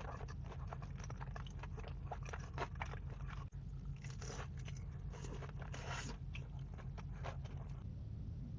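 Someone biting and chewing crunchy food: a dense run of crisp crunches, with a brief break about three and a half seconds in.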